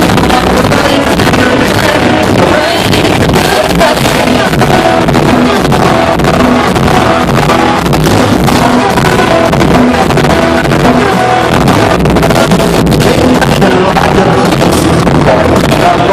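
Live country-rock band playing loud, with singing over electric guitar and drums.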